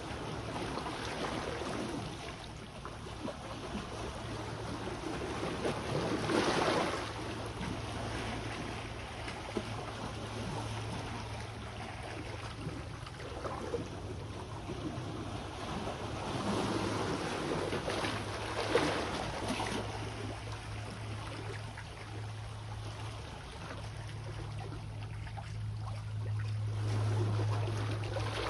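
Sea waves washing onto the shore, swelling twice into stronger surges, over a steady low hum that grows louder near the end.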